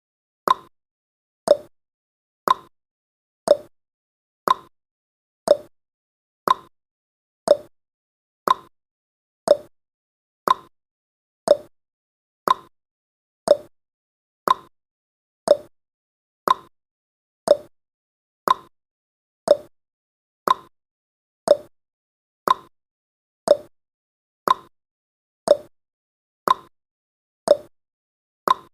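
Clock ticking sound effect for a countdown timer: one short tick a second, steady throughout, alternating between a higher tick and a lower tock.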